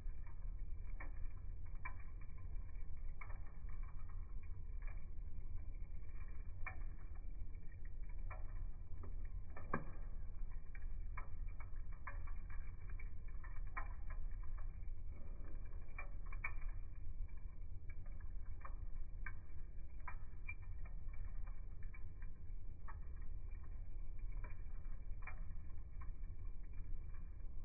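Wood fire burning, with irregular crackles and pops over a low steady rumble.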